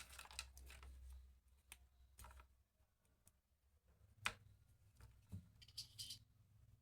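Faint, scattered clicks and light handling noises from a small plastic earphone casing being turned over and worked at to open it, with a brief scratchy rustle near the end.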